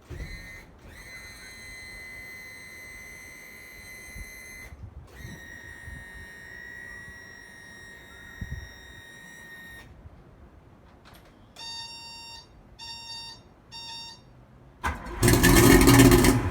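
Yamaha outboard warning buzzer at key-on: two long steady high-pitched beeps, then three short beeps. Near the end a loud burst of noise as the starter cranks the engine for a cold start.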